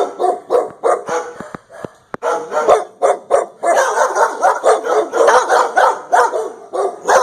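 Dogs barking over and over in short, sharp barks. From about halfway through, the barks come thicker and overlap, as several dogs bark at once.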